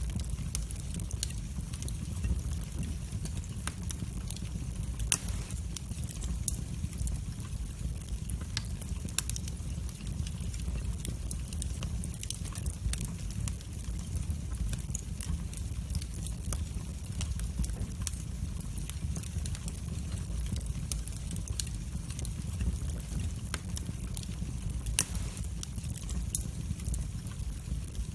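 Wood fire burning in a fireplace: a steady low rumble of the flames with frequent small crackles and pops, two of them louder, about five seconds in and near the end.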